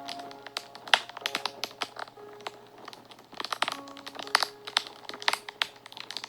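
A fire crackling and snapping, with irregular sharp pops, the loudest about a second in and a busier run of them in the second half. Soft background music with long held notes plays under it.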